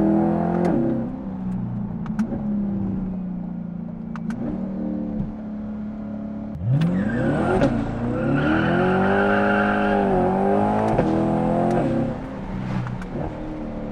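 Chevrolet C8 Corvette's 6.2-litre V8 through a titanium valved catback exhaust, valves open, heard inside the cabin with the rear window down. It runs loud, then lifts off into a lighter cruise with a few sharp pops on the overrun. About halfway through it pulls hard, rising in pitch with a quick upshift. Near the end it lifts off again into more pops.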